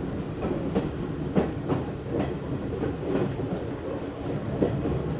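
Interior running sound of an Izu Hakone Railway Series 3000 electric train: a steady rumble of wheels on track with irregular sharp clacks as the wheels pass over rail joints.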